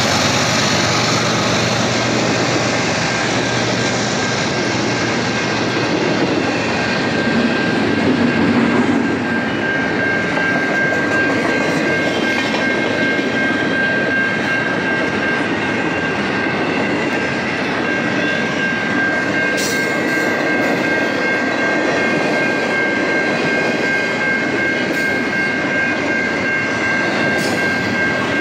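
Double-stack intermodal freight train rolling past: a steady rumble and rattle of container cars on the rails. A louder low rumble comes about eight seconds in, and a steady high tone joins about eleven seconds in and holds.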